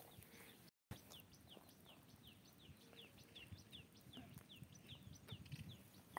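A bird calling faintly, a steady run of short, high chirps that each fall in pitch, about four a second.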